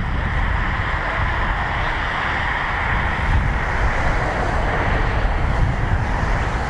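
Jet engines of a Boeing 787-9 airliner coming in to land: a steady rushing jet noise over a low rumble.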